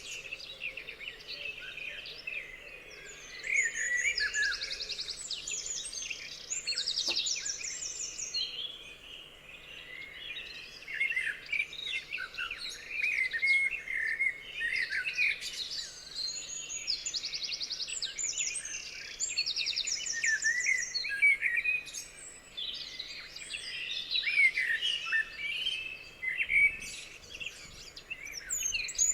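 Several songbirds singing and calling at once, a busy mix of chirps and whistles, with a rapid high trill that comes back every few seconds.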